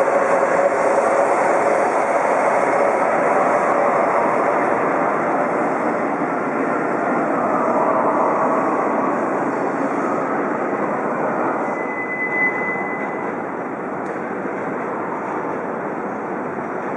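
Shinkansen train running on the station tracks: a loud, steady rush of wheel and air noise with a motor whine that slowly fades as the train draws away. A short high tone sounds about twelve seconds in.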